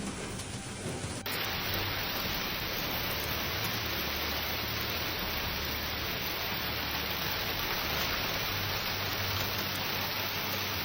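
Steady, dense rushing noise of water, beginning abruptly about a second in and running on evenly.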